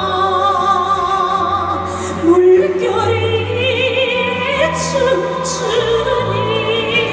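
Music: a woman singing a Korean song in a trained, operatic style with strong vibrato over instrumental accompaniment.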